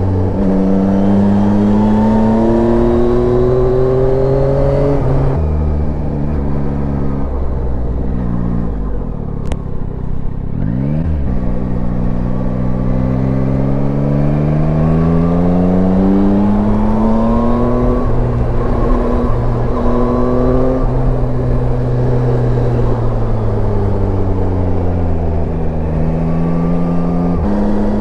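Yamaha Tracer 9's inline three-cylinder engine under way, its pitch climbing as it accelerates and dropping suddenly at upshifts about five seconds in and near the end. It eases off around ten seconds in, then climbs again and holds fairly steady before a slow fall.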